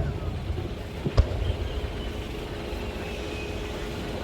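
Aerial fireworks display: one sharp firework bang about a second in, over a steady low rumble, with a faint thin high whistle in the middle.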